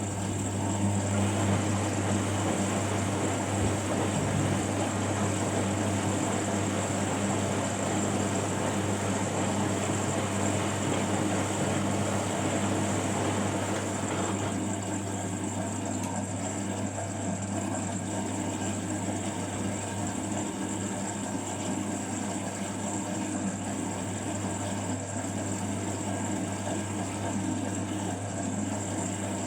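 Front-loading washing machine running mid-cycle, its motor giving a steady low hum with a whirring noise over it, which eases a little about halfway through.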